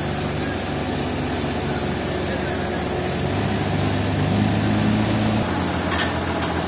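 Engine running steadily, its hum shifting in pitch a couple of times, with two sharp clicks near the end.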